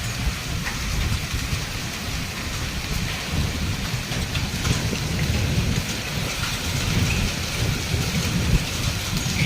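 Heavy rain and hail in a storm: a steady hiss of falling rain over a constant low rumble of strong wind, with scattered faint ticks of hailstones striking.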